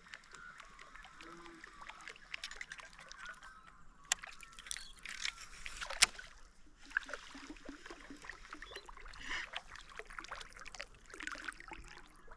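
Small water splashes and drips close to a kayak, a steady crackle of little ticks with a sharper click about halfway through.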